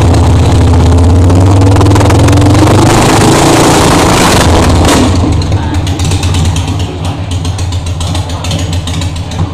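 Custom Harley-Davidson Shovelhead V-twin engine running hard, its pitch rising as it is revved for a few seconds. About five seconds in it drops back to a quieter idle with a pulsing beat.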